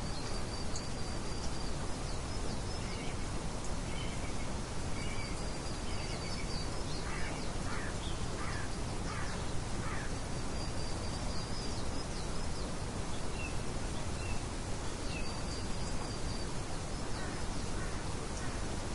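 Nature-ambience birdsong: a short high twittering phrase repeats about every five to six seconds, with scattered chirps and a run of four harsher calls about halfway through, over a steady rushing background noise.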